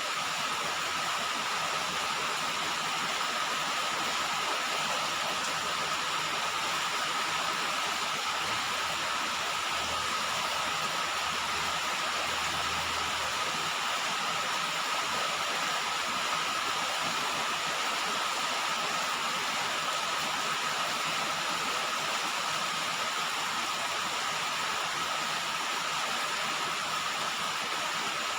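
Steady rain falling on a roof, an even hiss with no breaks.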